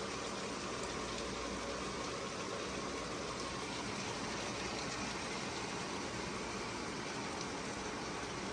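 Steady hiss and bubbling from a stovetop pot of catfish curry cooking on the burner.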